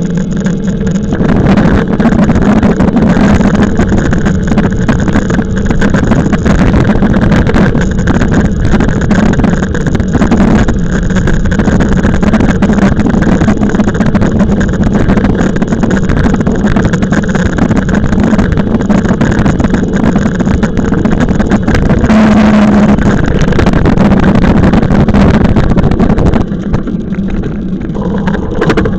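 Steady wind and riding noise on a camera carried on a moving e-bike, with a low hum underneath. It grows louder about a second in and eases off near the end.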